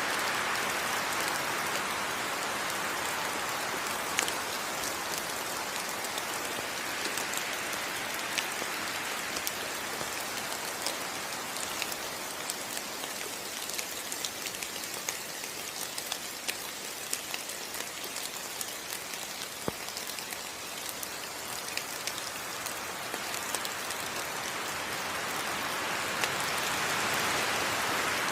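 Steady rain falling on foliage, with scattered close drops ticking out of the constant patter. The rain eases a little in the middle and swells again near the end.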